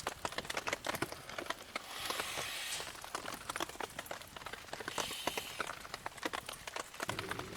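Campfire crackling and popping with many sharp snaps, and two brief hisses, the first about two seconds in and the second about five seconds in.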